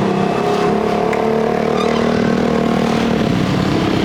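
A small engine running steadily, its pitch holding nearly level, growing weaker about three seconds in.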